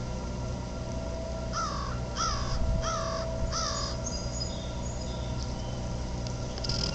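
A bird calls four times in quick succession, each call short and falling in pitch. The calls sit over the steady hum of a nearby pumping station.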